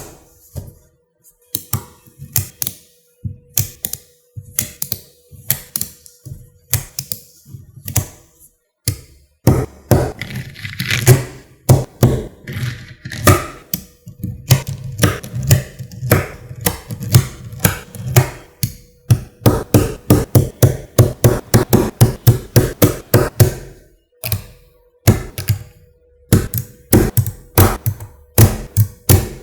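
Small neodymium magnet balls clicking and snapping together as they are placed one by one: sharp irregular clicks, sparse at first and coming thick and fast for a long stretch in the middle.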